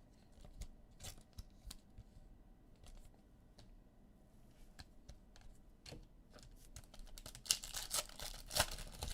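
Trading cards and their foil pack wrappers being handled on a table: scattered light clicks and taps, with a louder stretch of rustling and crinkling near the end.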